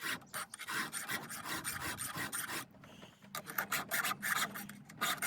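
Round file rasping across a semi-chisel chainsaw chain cutter in quick back-and-forth strokes, with a short pause about three seconds in: hand-sharpening a cutter whose edge has been rounded off.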